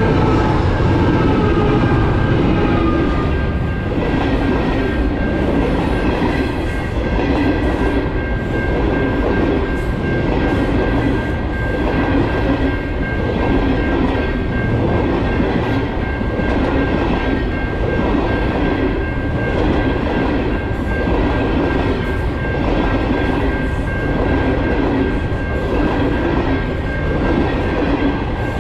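Passenger train passing close by: the NR-class locomotive's horn ends in the first few seconds, dropping in pitch as it goes by. Then the stainless-steel carriages roll past with a steady rumble, a repeated clatter of wheels over the rail joints, and a steady high-pitched ring.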